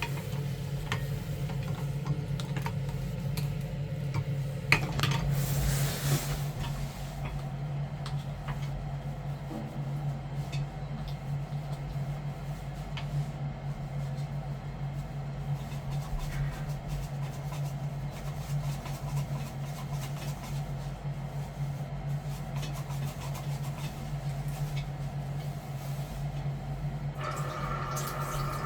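A wire cable being worked through a blocked boiler condensate pipe, with scraping and light metallic clatter, over a steady low hum. There is a louder scraping stretch about five seconds in.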